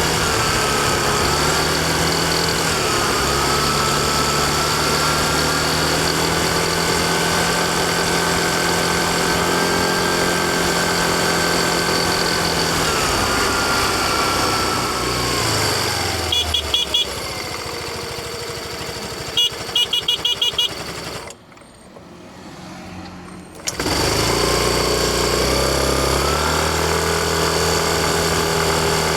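Yamaha Fazzio's single-cylinder 125 cc scooter engine running steadily under way, then winding down to a low idle with a few short high beeps. About 21 seconds in the engine cuts out for roughly two seconds, typical of the scooter's idle stop-start, then fires again suddenly and rises in pitch as it pulls away.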